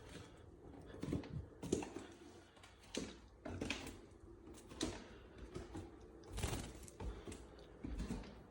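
A string of irregular light taps and knocks, one or two a second, some with a dull thump.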